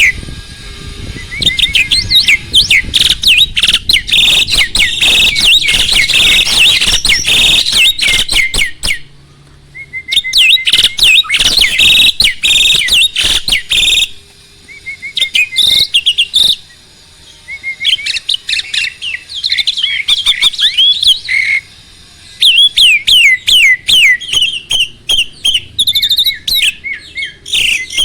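A jalak (starling) singing a loud, fast chattering song of rapid whistles, chirps and clicks, in phrases broken by a few short pauses.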